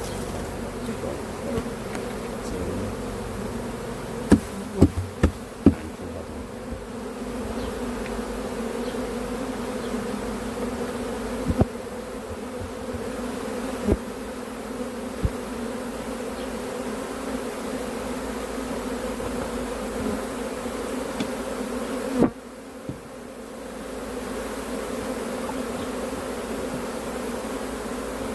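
Bees buzzing steadily in a hive, a dense hum. It is broken by sharp knocks: four in quick succession about four to six seconds in, and a few single ones later.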